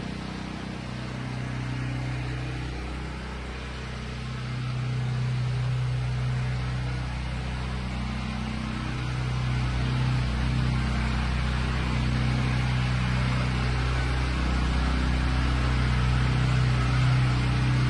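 Pressure washer engine running steadily, with a hiss of high-pressure water spraying.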